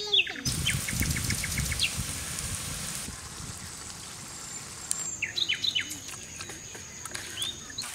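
Outdoor ambience with a bird giving several short, falling chirps in the second half, over a stretch of noisy hiss and low rumble in the first few seconds.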